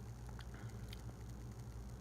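Quiet room tone: a low steady hum with a couple of faint clicks.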